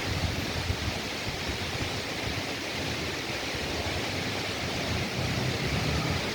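Ural M67-36 motorcycle's boxer-twin engine idling, a low uneven rumble of exhaust pulses under a steady rushing hiss.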